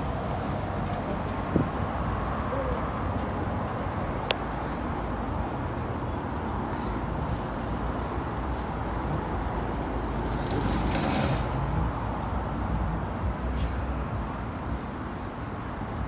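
Steady road traffic running past on a busy road, with a sharp click about four seconds in and a short hiss about eleven seconds in.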